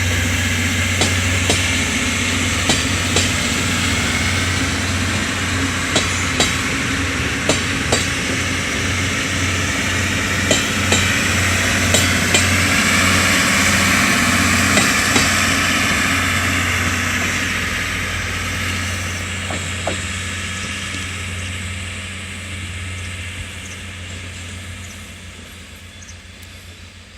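Diesel express train pulling out of the station: a steady engine drone, with irregular sharp clacks of the wheels over rail joints and points. The sound fades away over the last ten seconds as the train leaves.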